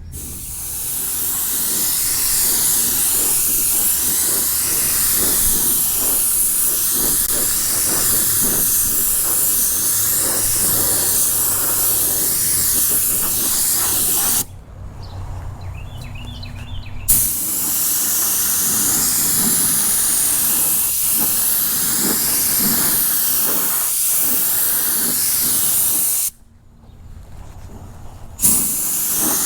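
Spray gun hissing as it sprays primer in long passes, the hiss cutting off twice for a couple of seconds when the trigger is let go and starting again with a sharp burst.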